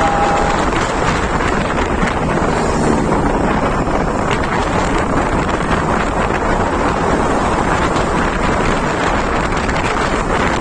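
Loud, steady wind noise buffeting the microphone while travelling along a road.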